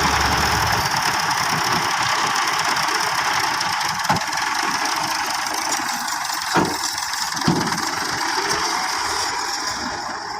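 Massey Ferguson 375 tractor's Perkins diesel engine running steadily, with three sharp knocks partway through. The sound eases off slightly near the end.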